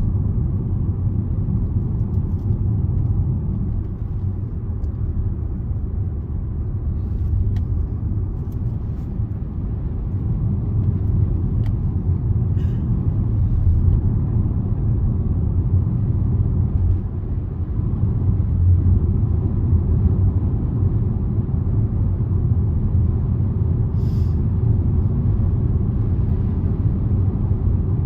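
Steady low rumble of a car on the move, engine and tyre noise heard from inside the cabin, with a few faint ticks.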